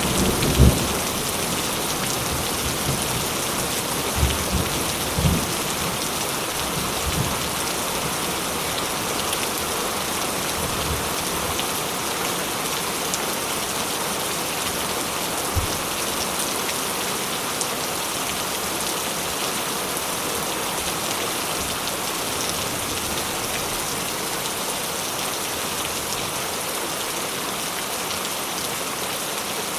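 Steady, heavy rain falling on a surface, an even hiss of drops. Low rumbles of thunder die away over the first several seconds, with one more faint low thud about halfway through.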